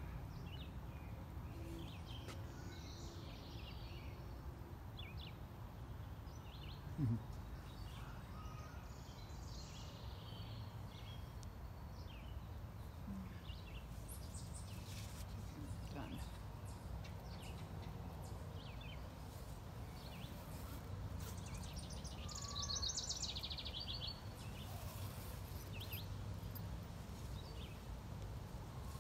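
Backyard birds chirping and singing on and off over a steady low outdoor rumble, with one short thump about seven seconds in and a longer run of song in the last third.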